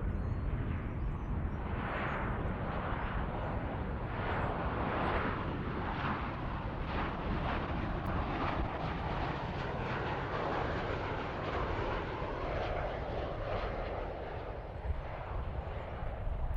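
Jet airliner's engines passing, a broad rushing noise that swells about two seconds in and fades near the end, over a steady low rumble.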